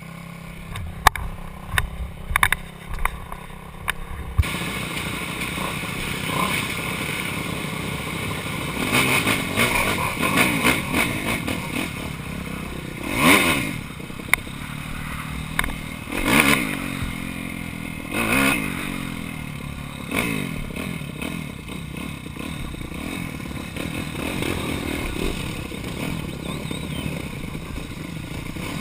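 A few sharp clicks and knocks, then from about four seconds in a motocross bike's engine running and revving up and down, with several sharp rises in revs.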